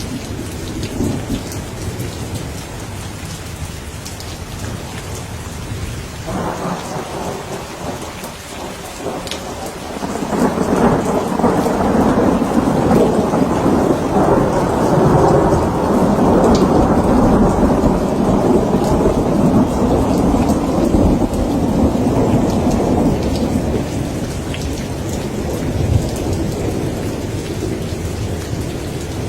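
Steady rain falling, with a long roll of thunder that swells about a third of the way in, rumbles for over ten seconds and fades out before the end.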